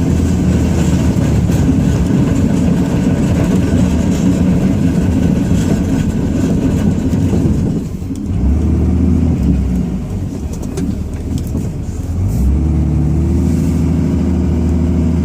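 Ram 2500's Cummins turbo-diesel engine running under load, heard from inside the cab while plowing. The engine note drops off around 8 seconds in, then picks back up and holds steady from about 12 seconds.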